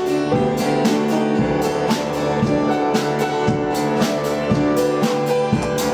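Live worship band playing an instrumental passage between sung lines: guitar and sustained chords over a steady drum-kit beat.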